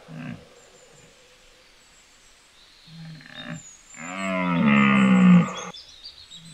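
A spotted deer (chital) stag's low bellowing calls: a brief one right at the start, another about three seconds in, then a long loud call that bends down in pitch at its onset and holds steady for nearly two seconds.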